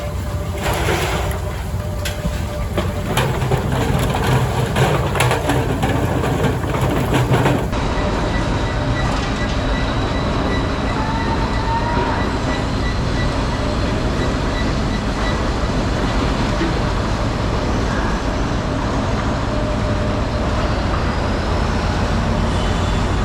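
Dockside unloading machinery running with a steady low rumble, with clanks and knocks in the first several seconds. After an abrupt change about eight seconds in, the rumble goes on and a run of short, evenly spaced beeps sounds for about seven seconds.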